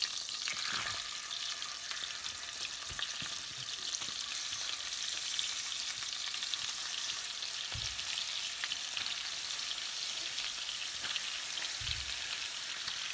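Chicken pieces sizzling and spitting as they brown in butter and olive oil in a pan, a steady crackle with a few soft low bumps from the pan.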